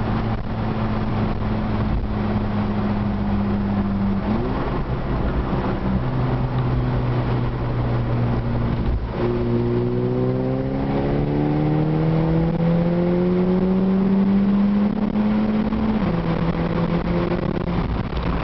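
VW MKV GTI's turbocharged 2.0T four-cylinder through a 3-inch turboback exhaust (downpipe and catback). It runs at a steady note with a short blip of revs about four seconds in, then from about halfway its pitch climbs slowly for several seconds before dropping back near the end.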